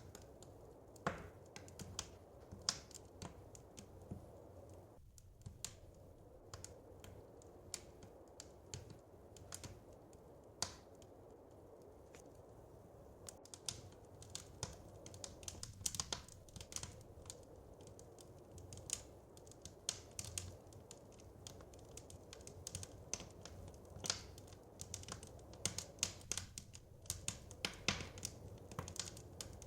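Wood fire crackling in a fireplace: irregular sharp pops and snaps, more frequent in the second half, over a low steady rush.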